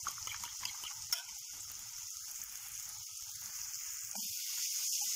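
Sliced mushrooms and peppers sizzling steadily in a frying pan. Eggs are being beaten in a bowl over it, giving quick clicking ticks in the first second or so.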